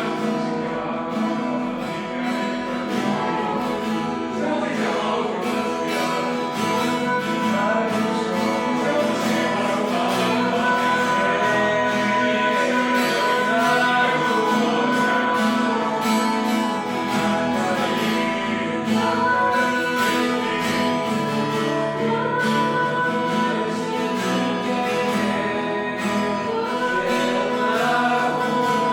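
Worship music: acoustic guitar strummed steadily with singing.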